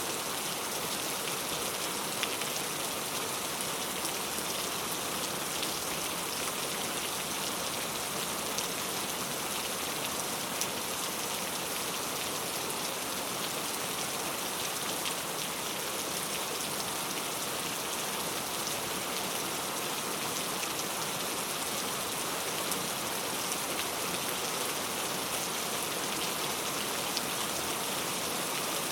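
Steady rain falling, an even hiss of drops with scattered small individual drop ticks.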